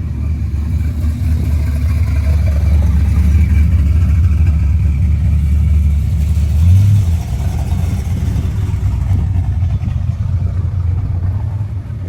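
Muscle car engine running loud and low, with a brief rise in pitch and level about seven seconds in before it settles back.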